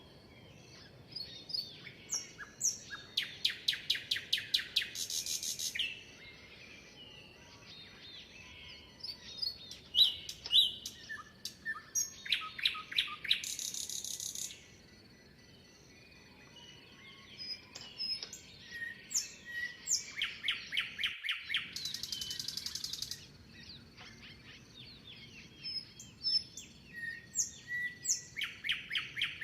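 Birds singing and chirping. One song comes back about every eight seconds: a run of rapid repeated notes lasting about three seconds that ends in a higher trill, with shorter chirps from other birds in between.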